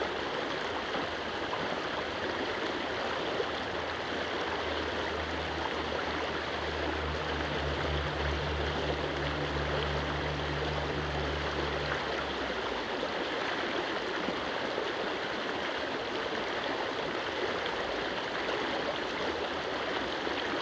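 Stream water rushing steadily over and around stone stepping stones. A low hum comes in about five seconds in and fades out after about twelve.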